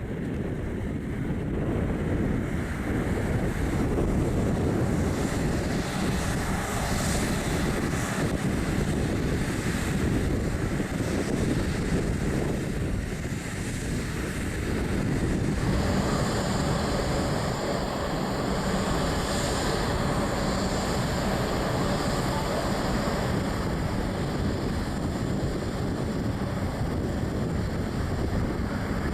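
Jet airliner engines running with a steady rush. About halfway through, a higher whine joins in.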